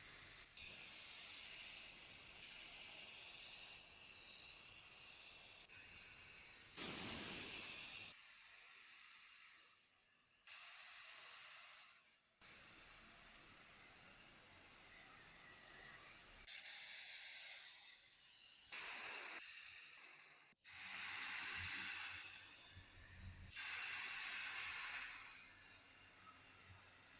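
Hissing spray in several bursts of one to two seconds over a steadier background hiss.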